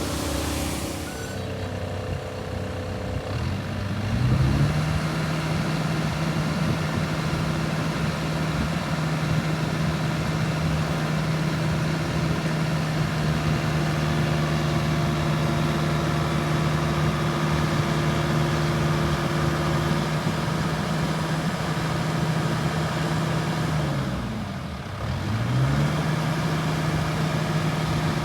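Kubota U48-4 mini excavator's diesel engine running: it revs up to a higher steady speed about four seconds in and holds there, then dips briefly and picks back up near the end.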